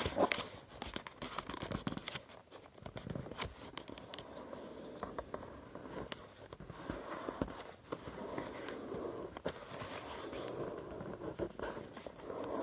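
A sheet of A5 copy paper being handled and folded by hand: rustling with scattered sharp crinkles and scrapes as the paper is creased.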